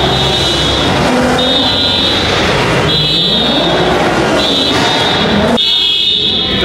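Car engine revving over and over, its pitch climbing with each rev. Mixed with it is a high electronic beep that sounds on and off about every second and a half. The engine sound cuts out near the end while the beeping goes on.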